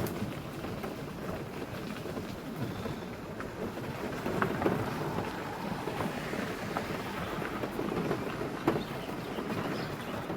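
Car driving on a forest road: steady tyre and road rumble with scattered small ticks.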